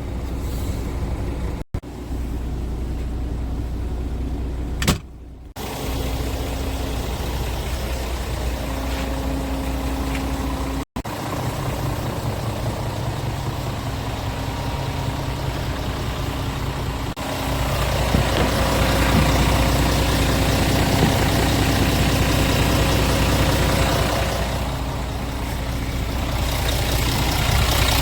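Scania S410 truck's 13-litre six-cylinder diesel engine idling steadily, in several short clips joined by brief cuts, and louder and fuller for the last ten seconds or so.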